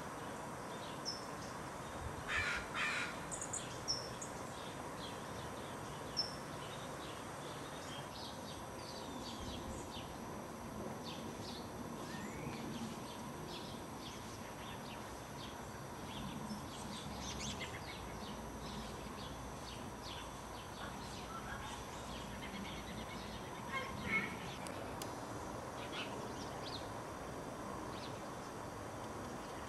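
Backyard birds calling: a few harsh, rasping calls about two to four seconds in and again later, over many short, high chirps.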